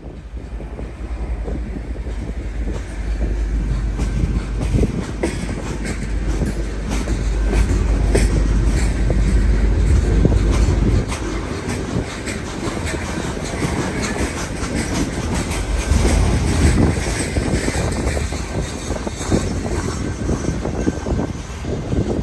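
CPKC weed sprayer train passing close by. A heavy low rumble builds over the first few seconds and stays loud until about halfway, then drops off. Wheels click and clack over the rails throughout, with another surge of rumble about two-thirds of the way through.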